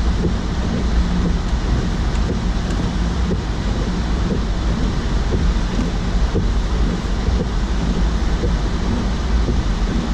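2016 Mazda CX-9 driving through snow: a steady low rumble of tyres on snow-covered road with the engine's drone underneath.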